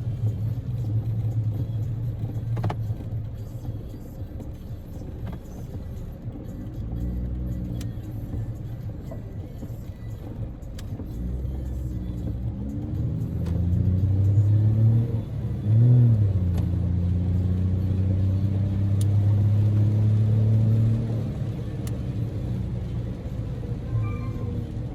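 In-cabin engine and road noise of a Daihatsu Move L150S, its EF-VE 660 cc three-cylinder engine rising and falling in pitch as the car speeds up and slows. The engine is loudest and steady for several seconds past the middle.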